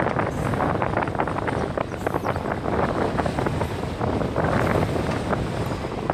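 Train running across a railway bridge, with irregular knocking, and wind buffeting the microphone.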